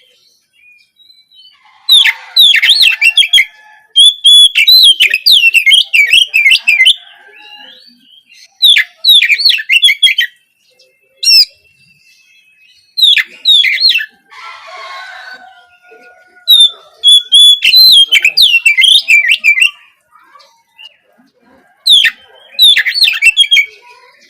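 Oriental magpie-robin (kacer) singing loud bursts of rapid, varied whistled phrases with short pauses between them, a recording played as a lure to set a young bird singing.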